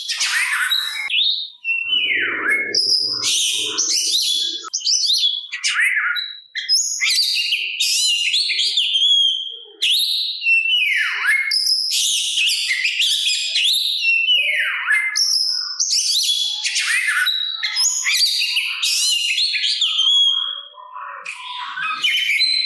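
Oriental magpie-robin singing a long, varied song of clear whistles, rapid chatters and sharp falling sweeps, broken only by brief pauses.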